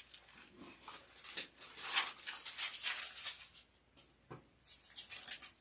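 Thin Bible pages being turned and leafed through, a run of irregular papery rustles that is busiest about two seconds in, while the verse is looked up.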